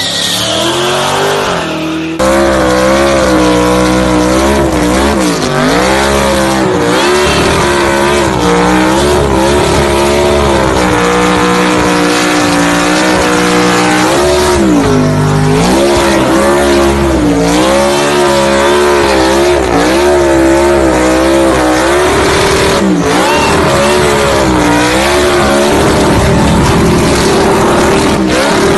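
High-powered car engine revving up and down over and over, its pitch rising and falling every second or two, with tyre squeal, as in a burnout or drift.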